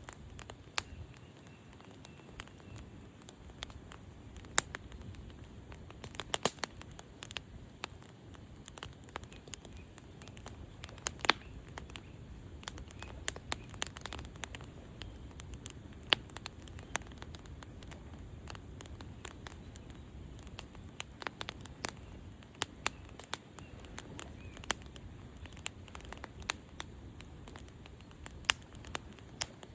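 Wood fire crackling, with irregular sharp pops and snaps scattered throughout over a steady low rumble of the flames.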